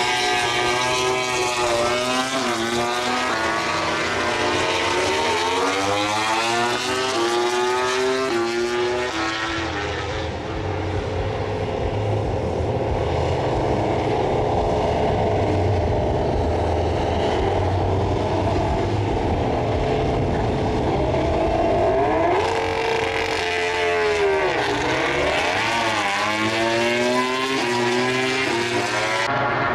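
MotoGP racing motorcycles' four-cylinder engines revving and accelerating away from practice starts, each bike's pitch climbing in steps through the gear changes. The climbing runs come in the first ten seconds and again near the end, with a steadier engine drone between.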